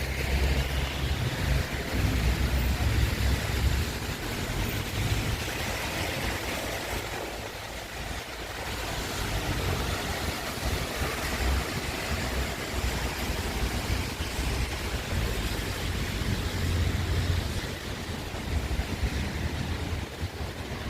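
Wind gusting against the microphone in low rumbling buffets that come and go, over a steady hiss of wind and rain.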